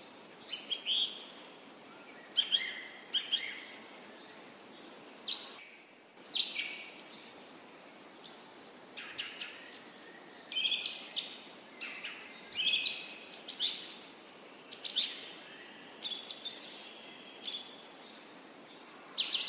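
Birds chirping and singing: short, high phrases about every second, over a faint steady hiss.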